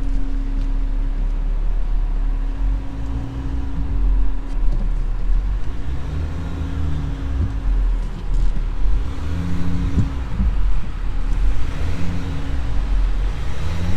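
A 4WD's engine revving up and easing off several times over, each rise and fall in pitch lasting a second or two, as the vehicle struggles in soft sand and cannot get the momentum to climb a dune track.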